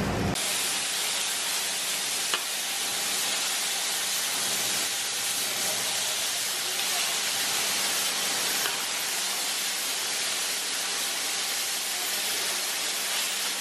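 Chopped onion, drumstick and tomato sizzling steadily as they fry in a large kadai while being stirred with a slotted steel spatula. A single sharp tick about two seconds in.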